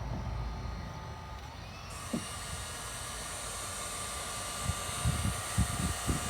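Electric heat gun running, a steady fan whine with hiss, growing louder about two seconds in. A few low bumps come near the end.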